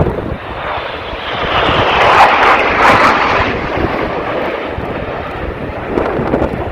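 An aircraft flying past at an airshow display, its engine noise swelling to its loudest about two to three seconds in and then easing off.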